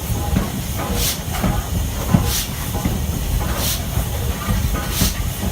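Stanier 8F two-cylinder 2-8-0 steam locomotive working slowly. Its exhaust comes as evenly spaced hissing chuffs about every 1.3 seconds, four in all, over a steady rumble of the engine and train.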